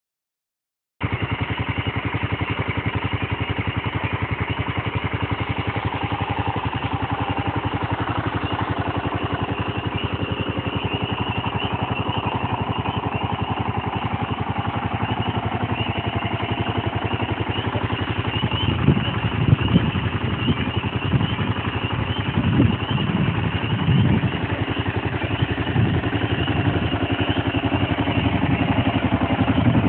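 Kawasaki KLR650's single-cylinder four-stroke engine idling steadily, starting about a second in. A few louder low thumps come in the second half.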